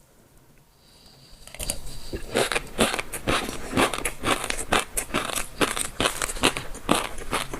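Close-miked chewing of crunchy food, quick crisp crunches several a second, starting about a second and a half in after a near-quiet opening.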